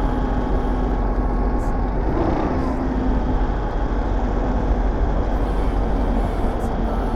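Aprilia SR GT 200 scooter's single-cylinder engine running at a steady cruise, mixed with heavy wind rush on the microphone.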